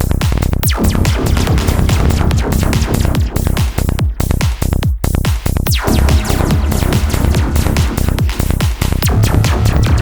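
Psytrance music built from analog modular synthesizer effects: repeated falling pitch sweeps over a steady bass.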